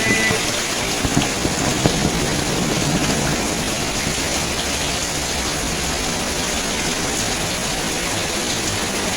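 Steady rain falling and splashing on surfaces.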